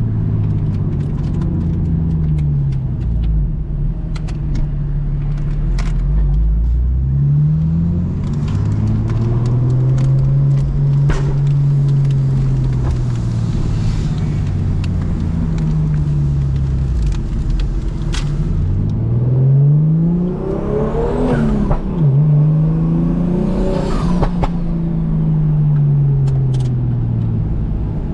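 BMW M2 Competition's single-turbo straight-six with a straight exhaust, revving up and easing off several times while being driven, with pops and crackles from the exhaust. Near the end the revs climb hard twice in quick succession, with a brief break between the two pulls and a faint high whine rising with them.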